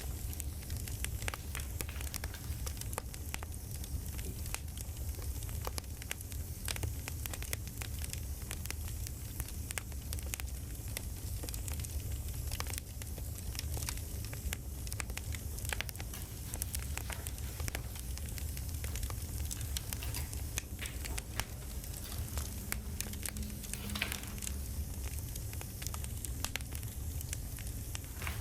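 Campfire crackling: a steady low rumble with frequent sharp pops and snaps throughout.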